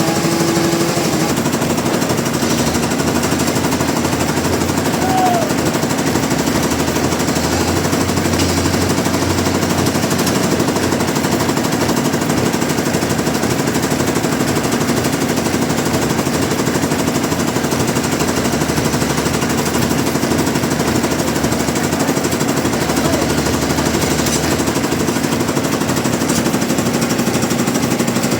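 Sawmill machinery running steadily: a loud, dense, fast rattle over a steady low hum.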